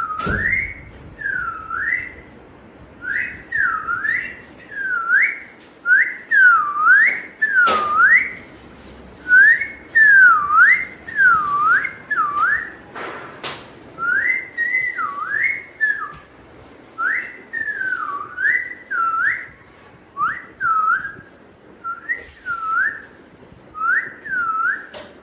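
An Alexandrine parakeet whistling: a long series of swooping whistles, each dipping down and sweeping back up, coming in quick runs of about two a second. A couple of brief knocks are heard partway through.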